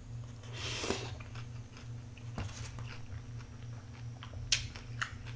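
A person chewing a mouthful of hoe-muchim, raw-fish salad with vegetables, with soft wet eating noises. A few sharp clicks come near the end.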